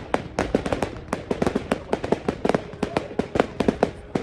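Fireworks display going off in a rapid, irregular barrage of sharp bangs and crackles, many per second.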